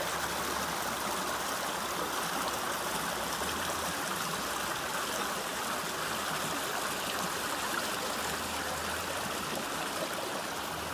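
Spring-fed creek flowing steadily, a continuous rush of water.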